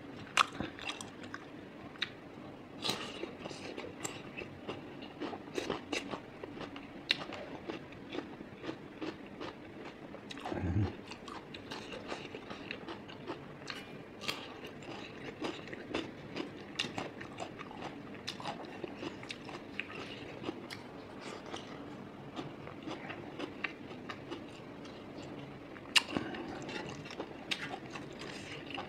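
Chewing and lip-smacking while eating pork intestine and rice by hand, with crunchy bites of raw cucumber about halfway through. Short wet mouth clicks come several times a second, with one sharper click near the end.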